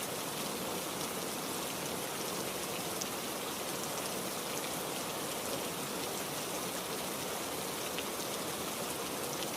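Steady heavy rain, a dense even hiss with the ticks of single drops striking a surface.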